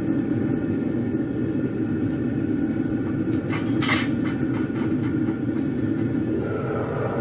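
Gas burner firing a small metal-melting furnace made from an old gas cylinder, with a steady rumbling roar while brass melts. There is a short sharp click about four seconds in.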